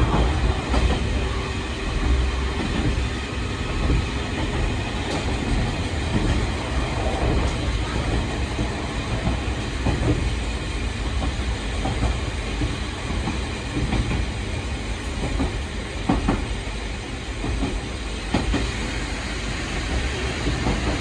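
Eizan Electric Railway 700 series railcar running along the line, heard from inside the passenger cabin: a steady rumble of wheels on rail with occasional short clacks.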